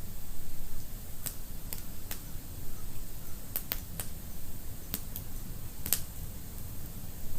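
Wood fire burning in a fireplace, crackling and popping at irregular intervals over a low steady rumble of the flames, with a louder pop about six seconds in.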